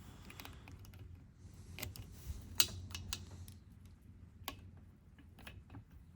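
Scattered sharp clicks and taps of hand tools and small parts being worked on a dismantled motorcycle engine, the loudest about two and a half seconds in, over a faint low hum.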